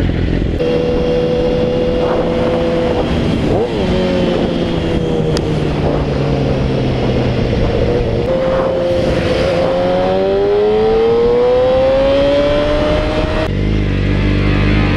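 Yamaha R6 inline-four sport bike engine running under way, its revs holding fairly steady, then climbing steadily over a few seconds as the bike accelerates, before the sound changes abruptly near the end.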